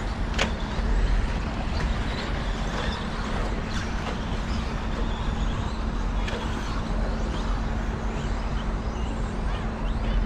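Radio-controlled 2WD stadium trucks running on the race track: a steady wash of motor and tyre noise with a low constant hum and a few sharp clacks.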